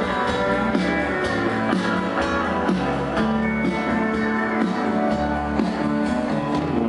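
Country band playing an instrumental passage: guitars over bass and drums with a steady beat.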